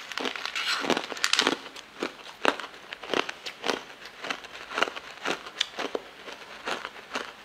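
Close-miked chewing of chewy jelly candies, with short sticky clicks from the mouth about twice a second. The clicks come thicker in the first second or so.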